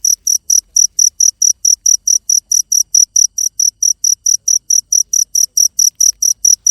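A cricket chirping in a fast, even rhythm, about four to five short high-pitched chirps a second.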